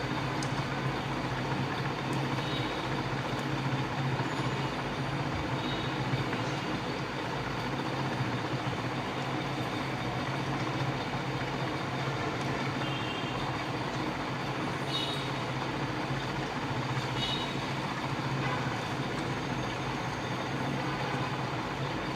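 Steady background hum and hiss with no speech, with a few faint light ticks here and there.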